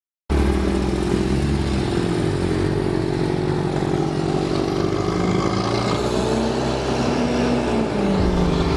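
A car engine and exhaust running at low, fairly steady revs, cutting in suddenly after a moment of silence; the pitch sags slightly and then climbs again near the end.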